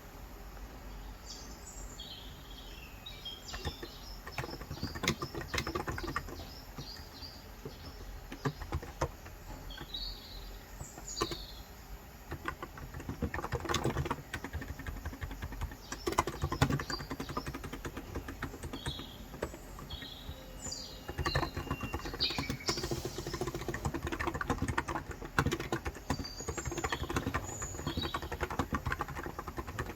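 Typing on a Cox Endeavor electro-capacitive keyboard with 35 g switches: key clicks coming in irregular bursts with short pauses. Birds chirp in short phrases several times in the background.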